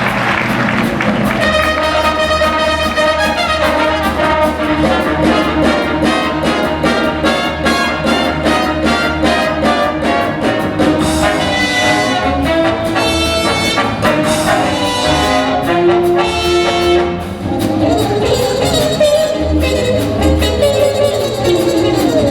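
Big-band jazz with trumpets and trombones playing, over a steady bass beat.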